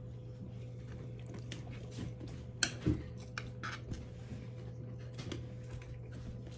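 Quiet chewing and small clicks of eating, over a steady low hum, with two louder clicks about two and a half to three seconds in.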